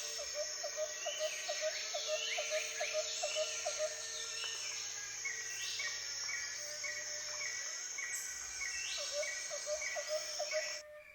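Several birds chirping and calling at once over a steady hiss, one repeating a short chirp about three times a second. The sound cuts off abruptly near the end.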